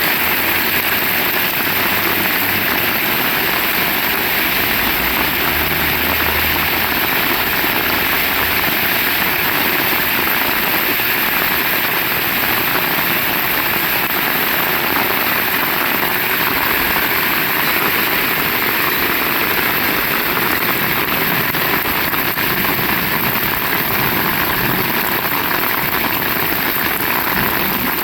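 Heavy rain falling steadily, an even, unbroken hiss. A faint low rumble sits underneath during roughly the first ten seconds.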